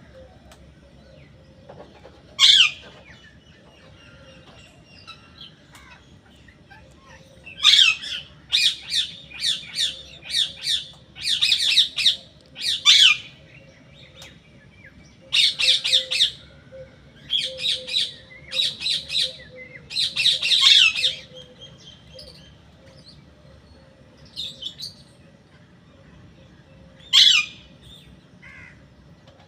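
Parrot squawking in loud, harsh calls: a single squawk, then two long runs of rapid squawks several a second, and a few more single squawks near the end.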